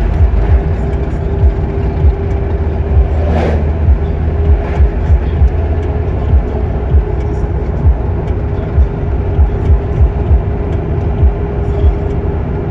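A motor vehicle on the move, with steady road and engine noise, a steady hum, and irregular low buffeting thumps, like wind hitting the microphone. A brief louder rush comes about three and a half seconds in.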